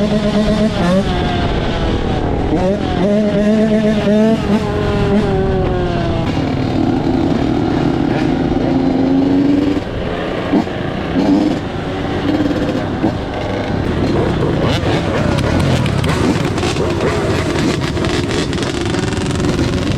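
Dirt bike engines running and revving, the pitch climbing and dropping as the throttle opens and closes, with a steadier stretch partway through.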